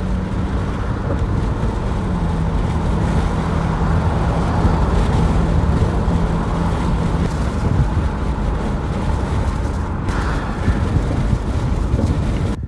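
Steady road noise of a motor vehicle under way, with a low engine hum that drops slightly in pitch about two seconds in and fades out after about seven seconds.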